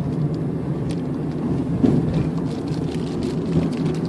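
Steady engine drone and road noise heard inside a moving vehicle, with a few light rattles.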